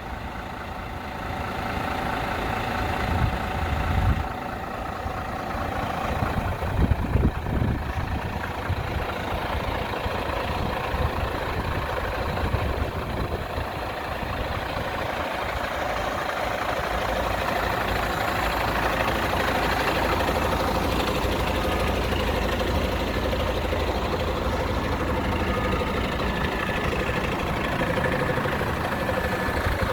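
Iveco Stralis AT440S45T truck's six-cylinder diesel engine idling steadily, with a few dull low thumps in the first several seconds.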